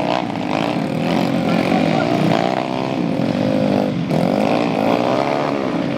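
Several motocross bike engines revving hard together, their pitch rising and falling over and over.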